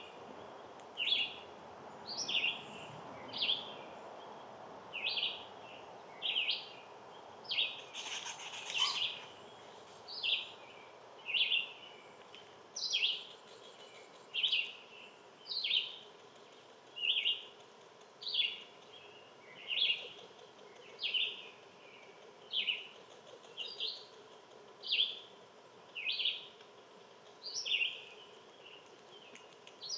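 A single bird chirping the same short call over and over, about one chirp every second and a half, with a brief rustle about eight seconds in, over faint outdoor background noise.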